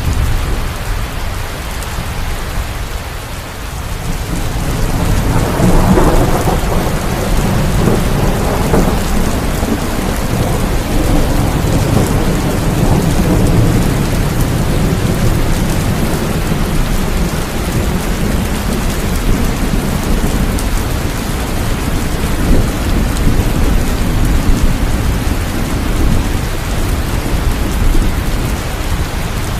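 Steady rain with rolling thunder: a roll of thunder swells about five seconds in and rumbles on, slowly fading under the rain.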